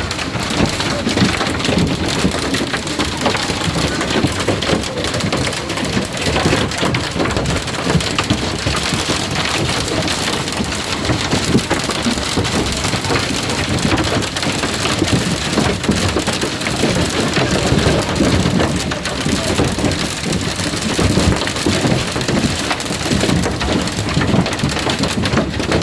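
Hailstorm: hail and rain pelting down, a dense, steady clatter of many small impacts.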